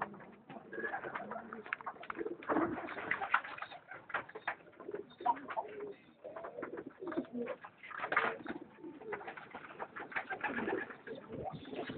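Many domestic pigeons cooing together, overlapping and continuous, mixed with frequent short clicks and rustles.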